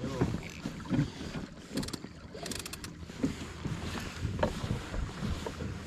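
Scattered light clicks and knocks of hands turning the adjuster on a kayak's rudder cable to take up slack and tighten the rudder.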